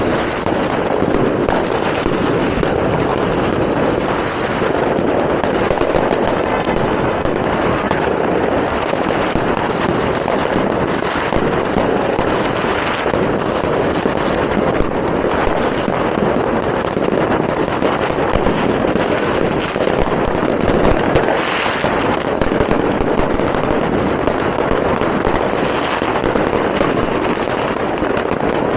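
Many fireworks and firecrackers going off at once in a continuous, overlapping barrage of cracks and bangs, loud and without a break.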